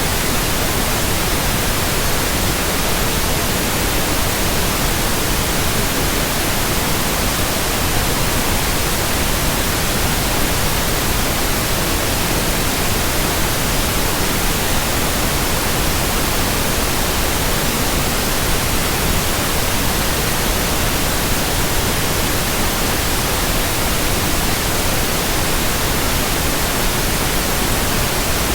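Steady, even hiss of white noise spread across all pitches, with no rhythm, tone or change.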